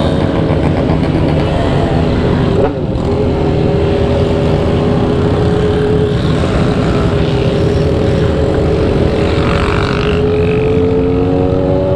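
Motorcycle engine running at a steady cruise under wind noise on the microphone. About three seconds in the engine note briefly breaks and dips, then holds steady and rises slightly near the end.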